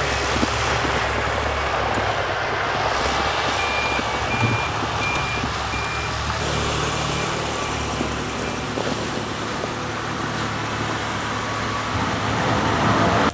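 A vehicle engine running under a steady rush of noise, with a run of four short high beeps a few seconds in.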